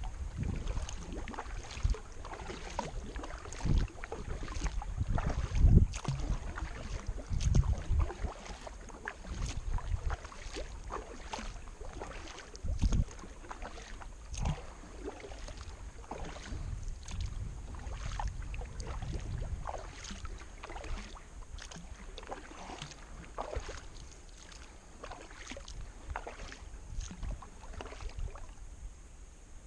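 Kayak paddling on a river: the paddle blades dip and splash in the water, with frequent small splashes and drips. Irregular low rumbles come and go, heaviest in the first half.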